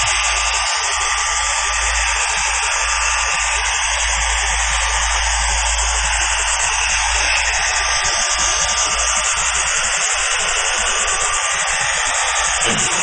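HB3000+ welding stress relief machine's treatment tool running continuously: a steady hiss over a low hum.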